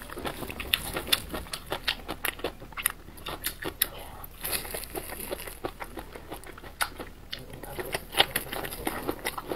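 Close-miked biting and chewing of soft blistered green peppers (tiger-skin peppers) coated in chili oil: a run of irregular mouth clicks.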